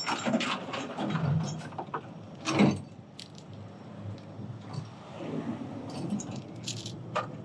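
Metal tow chains and hooks clinking and rattling as they are handled, with a louder clank about two and a half seconds in.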